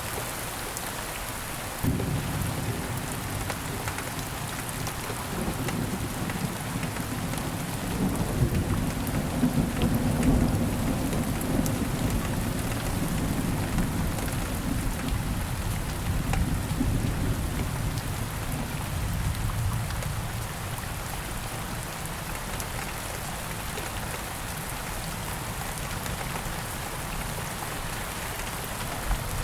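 Steady rain falling, with a roll of thunder that starts suddenly about two seconds in, is loudest around ten seconds, and rumbles away over the next ten seconds.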